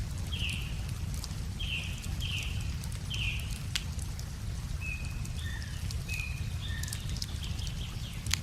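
Wood fire crackling with scattered sharp pops over a steady low rush of a river, while a bird sings: four short calls in the first half, then a few thinner whistled notes.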